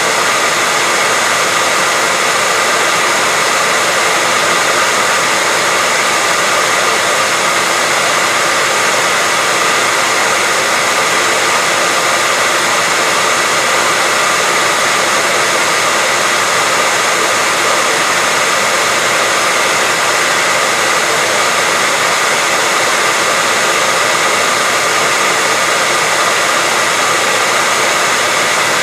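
Hairdryer running steadily, an even rushing blow of air over the fan's motor whine, with no change in pitch or level.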